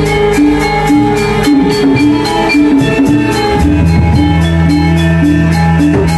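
Balinese gamelan playing for a dance: ringing metal-keyed notes repeating in a steady pattern over drums, with quick, regular cymbal strokes.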